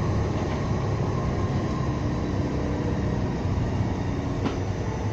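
Siemens-Duewag U2 light rail car running along the track, a steady low rumble of wheels and drive, with a faint click about four and a half seconds in.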